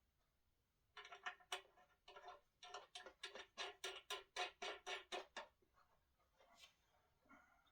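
Faint, rapid run of light clicks, about five a second, starting about a second in and stopping after about five seconds, followed by a few scattered clicks near the end.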